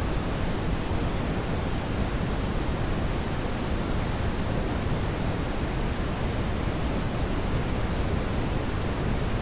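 Brown noise: a steady, even rushing hiss, strongest in the deep bass and fading toward the treble, with no changes or events.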